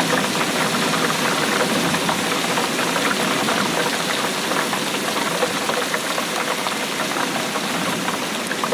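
Steady rainfall, a dense, even patter of countless drops.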